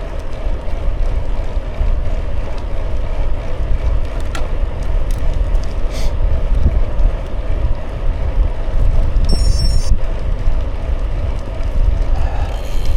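Wind buffeting the microphone of a moving bicycle's camera, a loud, steady rumble, with the steady hum of the tyres rolling on the road and a few light ticks.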